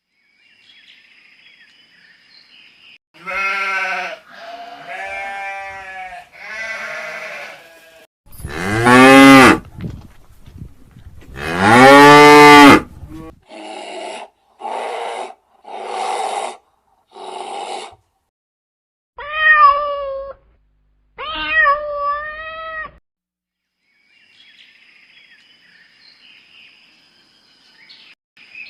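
A string of separate animal calls, the loudest being two long, deep cow moos about eight and eleven seconds in, with shorter calls from other farm animals before and after them.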